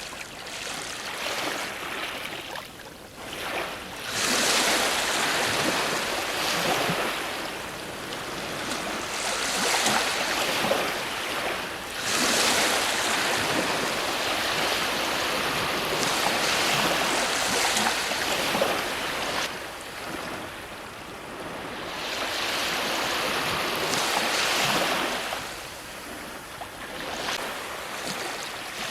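Ocean waves breaking on a shore, the surf noise swelling with each wave and easing off between them, several waves in turn.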